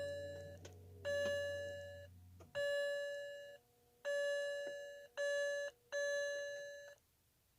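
A 2007 BMW 328xi's electronic warning chime sounding over and over as the start button is pressed, about six clear tones roughly a second apart, while the engine does not crank. A low steady hum, which the owner takes for the fuel pump running, stops about two and a half seconds in.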